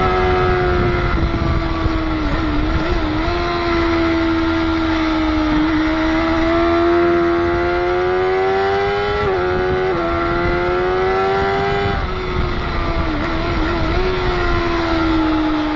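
Motorcycle engine running hard at high revs on a race track, heard onboard, its pitch climbing slowly and dipping briefly several times, with wind rush on the microphone.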